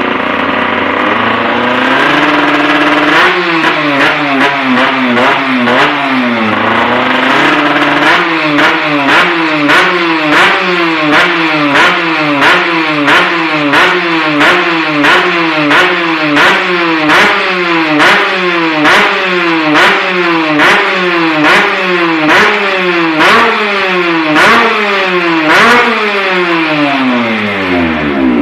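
Drag-racing motorcycle engine being revved hard in quick repeated throttle blips, about one and a half a second, each rev jumping up sharply and then falling away. Near the end the revs fall off in one long drop.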